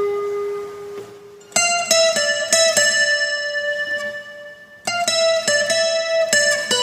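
Guitar music: single plucked notes that ring on and fade, with a new phrase struck about a second and a half in and again near five seconds in.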